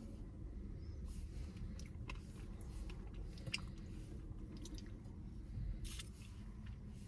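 Close-up eating sounds of a Blizzard with pieces of chocolate in it: wet chewing with scattered small crunchy clicks, one sharper about halfway through and a short cluster near the end, over a steady low hum.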